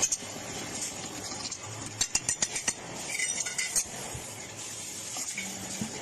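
Metal clinking and clattering over a steady hiss, with a quick run of clinks about two seconds in and another near four seconds.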